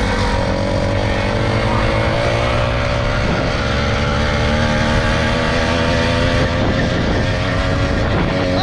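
Small motorbike engine running steadily under way, a continuous drone with a dense low rumble.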